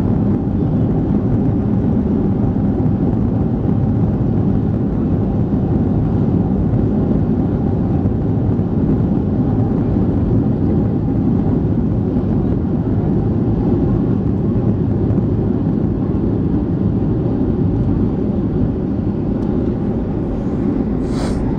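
Steady rumble of a Boeing 737-800's CFM56 jet engines and airflow, heard from inside the passenger cabin. A brief high-pitched sound comes near the end.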